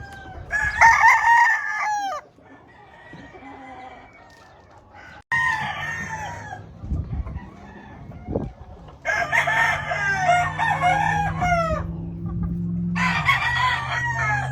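Gamefowl roosters crowing four times, each crow a long call with a drawn-out falling tail.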